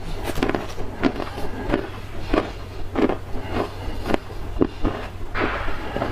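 Dry black clay being bitten and crunched close to the microphone: a run of sharp crunches, about one or two a second, with a longer gritty crumbling stretch about five and a half seconds in.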